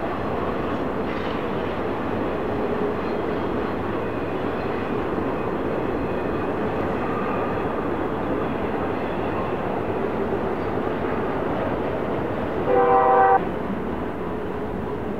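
BNSF intermodal freight train rolling by with a steady rumble of wheels on rail. Near the end comes one short blast of the locomotive's horn, a chord of several notes lasting about half a second.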